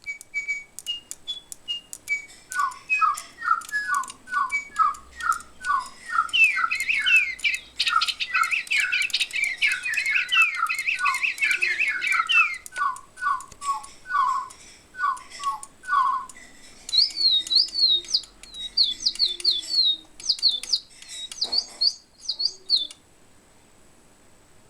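Cuckoo clock's birdsong: quick repeated chirps and trills from several bird voices overlapping, with higher, rapid warbling chirps in the last part before it stops about 23 seconds in.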